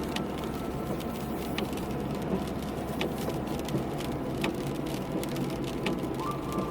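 Rain falling on a car, a steady hiss with scattered sharp drop ticks, over the low steady hum of the car running.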